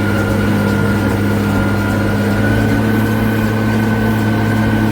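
White 2-135 tractor's diesel engine running steadily under load while baling hay, heard from inside the cab, with a thin high whine over the engine note.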